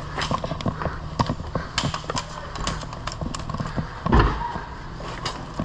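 Scattered sharp clicks and taps at an irregular pace, with one heavy thump about four seconds in.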